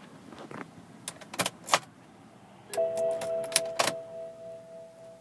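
Car key jangling and clicking into the ignition of a 2005 BMW 535d, then a steady electronic warning chime from the dashboard that sounds for about two and a half seconds with more clicks over it.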